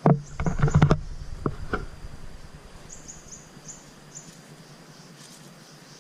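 A few loud knocks and thumps in the first second, then a bird chirping a quick run of short high notes about three seconds in, over a steady high hum of insects.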